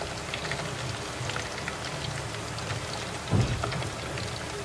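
Batter-coated chicken pieces deep-frying in hot oil: a steady crackling sizzle, with one low thump a little over three seconds in.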